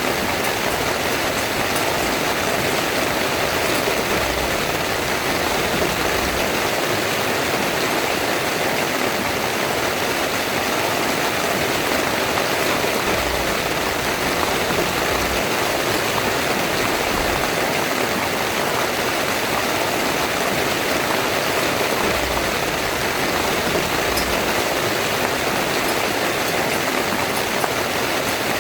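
Heavy rain falling steadily on a tent, a dense, even hiss with no let-up.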